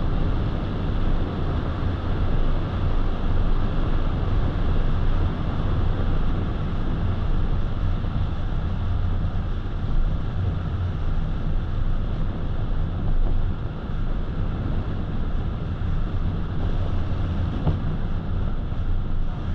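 Car driving at a steady speed: an even rumble of tyres on the road and engine, heard from inside the cabin.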